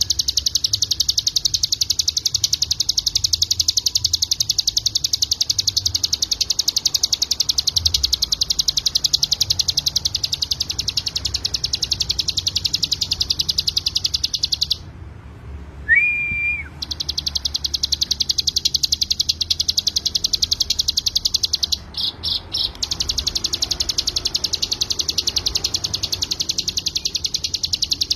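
Ciblek gunung (hill prinia) singing its 'ngebren' song: a fast, unbroken high trill of rapidly repeated notes. About halfway in the trill stops for a couple of seconds and a single short whistle sounds; a few seconds later the trill stutters briefly before running on.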